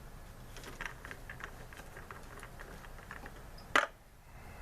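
Small clicks and rattles of a lawnmower fuel tank being worked loose from a zip tie, with one sharp clack about four seconds in.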